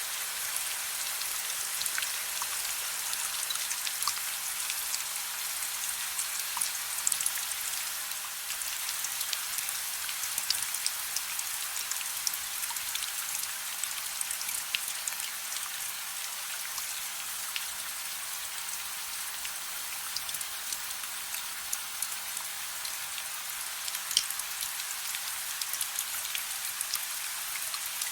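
Steady soft rain: an even hiss with many small, sharp drop ticks scattered through it.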